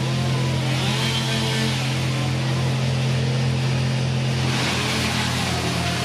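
Chainsaw engine running at a steady speed, a constant drone.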